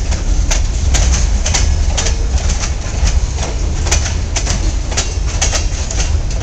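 Housatonic Railroad freight cars rolling past, their wheels clacking on the rails in quick, irregular clicks over a steady low rumble.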